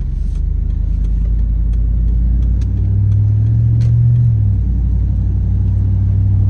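4.8-litre LS V8 truck engine running under way with an exhaust leak, a steady low drone. Its note climbs in pitch and then drops back about four seconds in.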